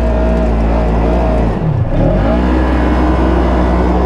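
Side-by-side UTV engine running under throttle, its pitch dropping briefly about a second and a half in and climbing back, then holding steady.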